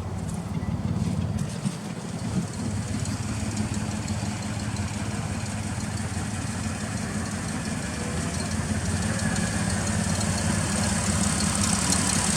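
A 2005 Toyota Highlander's V6 engine idling steadily while it sets misfire codes (the scanner names cylinder 6) that the owner has not traced; new plugs, wires and an injector have not cured it. The hum grows slowly louder toward the end.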